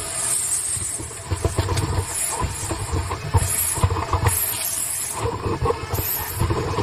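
Vacuum cleaner running through a slender dryer-vent attachment, with irregular knocks and rattles as the attachment is worked down into the lint-trap slot.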